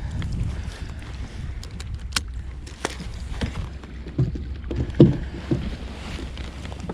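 Scattered clicks and knocks of gear being handled aboard a fishing kayak, the loudest knock about five seconds in, over a low steady rumble.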